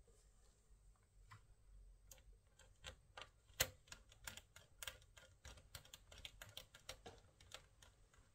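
Typing on a laptop keyboard: faint, irregular key clicks, several a second, starting about two seconds in.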